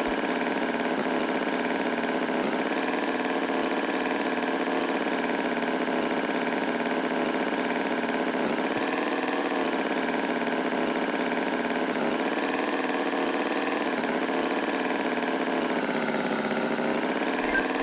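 Tractor engine running steadily at idle, its pitch drifting slowly up and down every few seconds.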